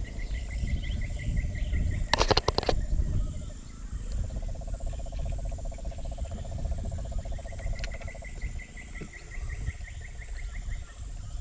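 Amazon forest wildlife calling: runs of rapid, evenly repeated high chirps and a long buzzing trill from insects or birds, over a low rumble, with a brief burst of sharp clicks about two seconds in.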